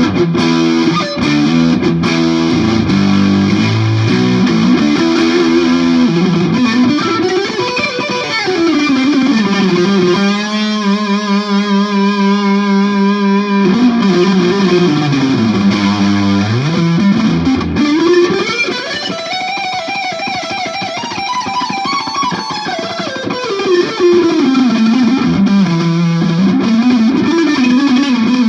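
Distorted electric guitar, a 1967 Gibson SG with three P90 pickups played through a Marshall JCM 2000 amp and a Headrush effects pedalboard, playing a lead line with wide pitch glides sweeping up and down. About a third of the way through it holds one long steady note.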